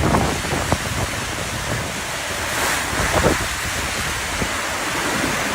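Cyclone storm wind gusting hard and buffeting the microphone, over a steady rush of wind-driven water.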